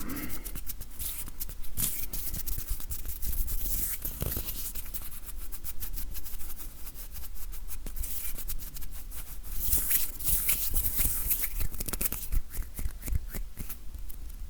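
Close-microphone ASMR hand sounds: hands rubbing and fingers clicking and tapping in a dense, quick run of small clicks and rustles, with a louder patch of rubbing hiss near the end.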